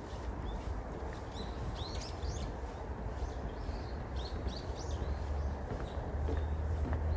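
Small birds chirping: many short, high calls scattered through, over a steady low rumble.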